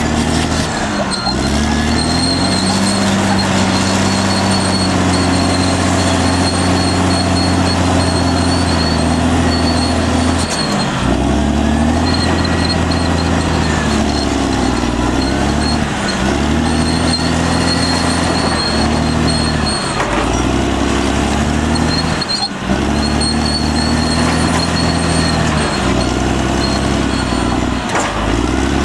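Caterpillar D6R XL bulldozer's diesel engine working under load, its pitch rising and falling over and over as it pushes and the revs drop and recover. A thin, steady high-pitched whine runs above it.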